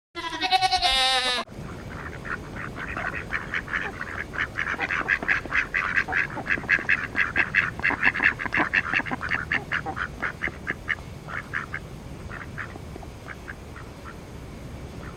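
A flock of ducks quacking: many quick, overlapping quacks that thin out to scattered ones near the end. A short wavering animal call opens it.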